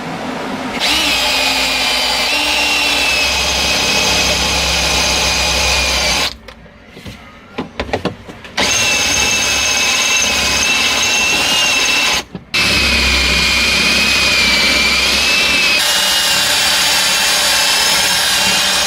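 Handheld electric power tool running at speed with a high whine whose pitch wavers as it is loaded, stopping for about two seconds around six seconds in and briefly again around twelve seconds in.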